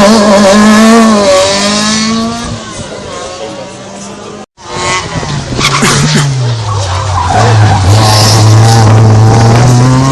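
Rally cars taking a tight hairpin: one car's engine at high revs drops in pitch and fades, then, after a sudden cut, a second car brakes, its engine dropping to low revs through the turn before it accelerates away with the revs climbing. Tyre noise and skidding run under the engines.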